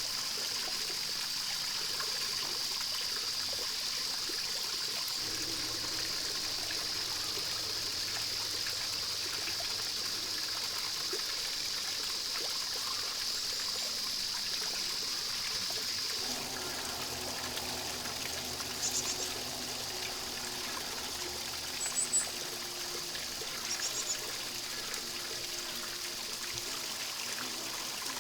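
A stream running steadily over stones with a continuous trickling and babbling. In the second half there are a few short, high wild-bird chirps.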